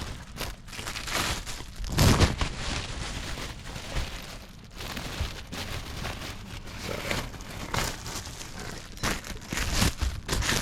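Plastic packaging crinkling and rustling as a new cabin air filter is unwrapped and handled, in irregular bursts, louder about two seconds in and again near the end.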